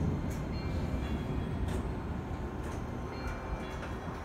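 Keisei 3000-series commuter train running, heard from inside the driver's cab: a steady low rumble of wheels on rail, with a few sharp clicks along the way.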